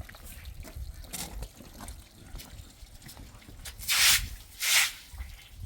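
Water splashing or pouring in two short loud gushes about half a second apart, after several seconds of faint trickling.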